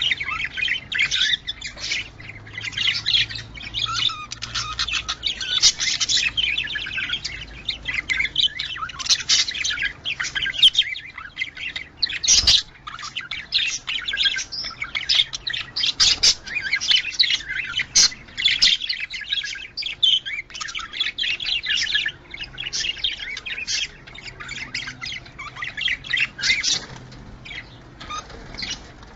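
Several budgerigars chattering, with dense, overlapping chirps, warbles and squawks: the lively chatter of budgies in breeding condition. A single sharp click cuts through about twelve seconds in.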